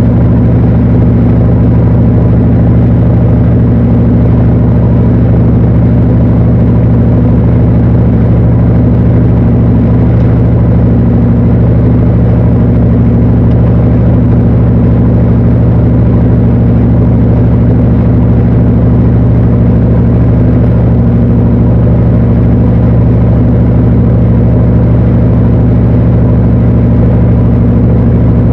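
Panasonic NA-FA80H8 washing machine running mid-cycle: a steady, unchanging machine hum.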